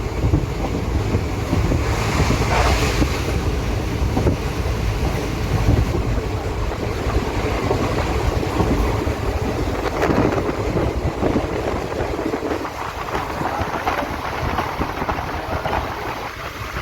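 Train running along the track: a steady low rumble and rush of wheels and air, with wind noise on the microphone and a few louder knocks scattered through.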